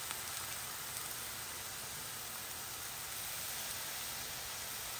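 Cauliflower rice sizzling steadily in a hot cast iron skillet, with chicken stock just poured in.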